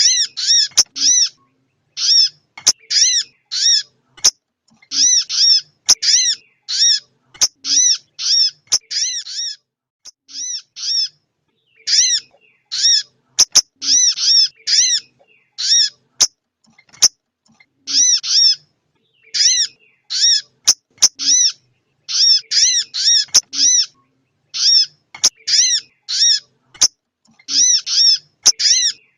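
Female sogon bird calling: short, arched whistled notes in quick runs of three to six, repeated with short gaps, the call played to rouse and excite a male sogon. Sharp clicks sound here and there between the notes.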